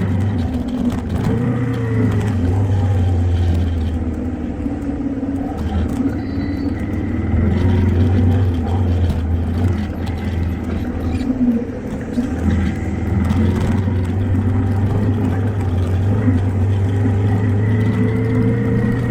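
Motor vehicle engine running, its pitch rising and falling as it changes speed and climbing near the end as it speeds up.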